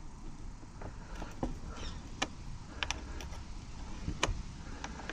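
Irregular metallic clicks and knocks from the latch mechanism of a UPVC door gearbox being handled and worked during repair. The loudest knock comes a little after four seconds in.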